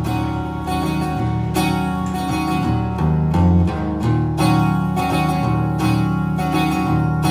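Live song in an instrumental stretch between sung lines, with acoustic guitar strummed and steady low notes under it.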